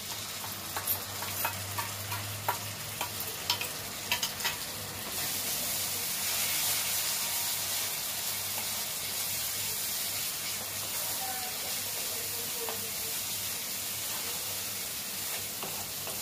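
Poppy-seed and cashew paste frying in oil with onion masala in a pan. There are stirring clicks against the pan over the first few seconds, then a steady sizzle that gets a little louder about five seconds in.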